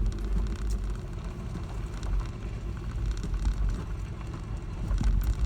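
Pickup truck with a camper in its bed driving on a dirt road: a steady low rumble with scattered small knocks and rattles, a sharper knock about five seconds in.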